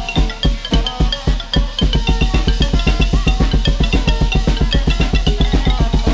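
Thai piphat ensemble music of the kind that accompanies likay: a xylophone-like ranat and drums playing a rapid, even run of strikes that quickens about two seconds in.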